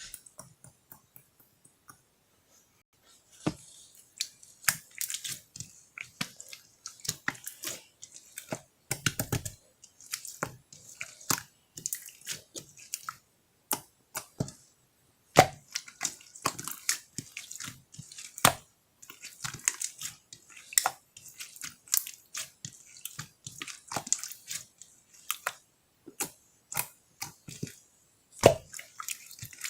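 Slime being squeezed and stretched by hand, making irregular wet clicks and sticky pops.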